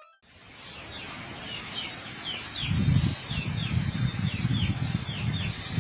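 Outdoor ambience: a bird chirping over and over, short falling notes about two to three a second, over a steady high insect hum. A low rumble joins from about two and a half seconds in.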